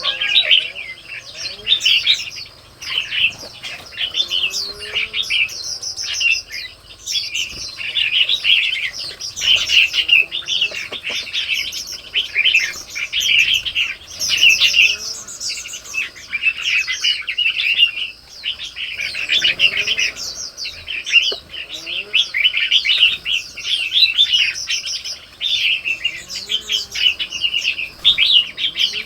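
A dense chorus of small birds chirping and chattering without a break, many quick overlapping calls. Faint low gliding notes come in every few seconds underneath.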